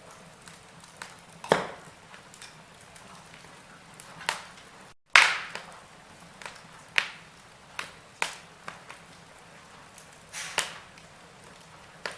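Wood fire crackling in a fireplace: irregular sharp pops and snaps of differing strength over a faint hiss. The loudest pop comes about five seconds in, right after a brief cut to silence.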